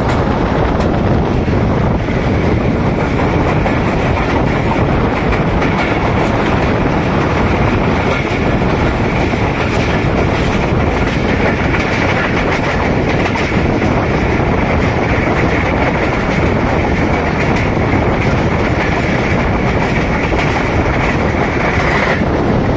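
Passenger train running at speed, heard from on board a coach: a steady rumble with the clickety-clack of wheels over rail joints. A steady high tone sits on top from about two seconds in until shortly before the end.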